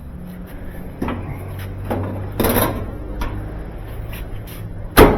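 Scattered knocks and clunks from handling a GE dryer's cabinet as it is taken apart, with one sharp knock near the end, the loudest.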